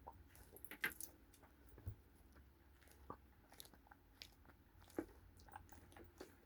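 Faint, irregular crackling clicks of a small squishy stress ball being squeezed by hand.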